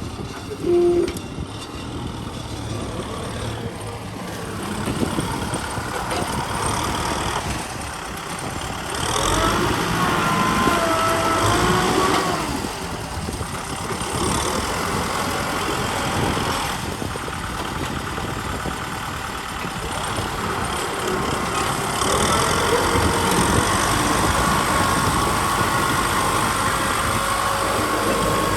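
Kubota M6040 SU tractor's four-cylinder diesel engine running, its pitch wavering up and down as the load changes. A brief loud tone sounds about a second in.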